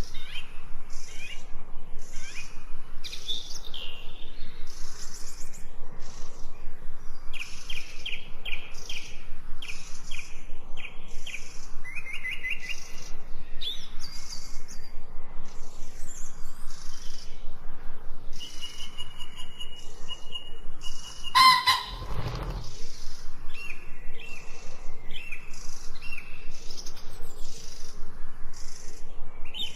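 Songbirds chirping and singing, with quick, even runs of short notes repeated several times a second. A brief sudden sound cuts across the song about two-thirds of the way through.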